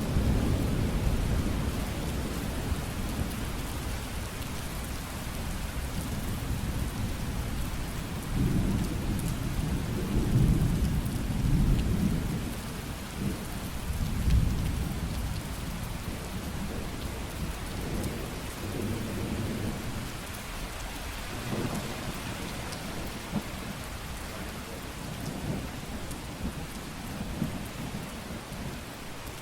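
Steady heavy rain hissing on surfaces, with rolling thunder rumbling low several times, loudest about 9 to 12 seconds in and again at 14 seconds.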